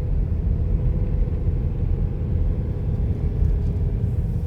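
A car driving: a steady low rumble of engine and road noise, with a faint steady hum over it.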